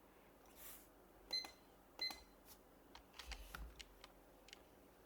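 Two button presses on a digital kitchen timer, each giving a short electronic beep, a little under a second apart. They are followed by a handful of light desk clicks and taps with a soft thump.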